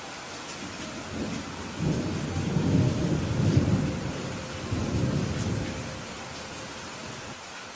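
Steady rainfall with a low roll of thunder that swells about a second in, peaks in the middle and fades away by about six seconds.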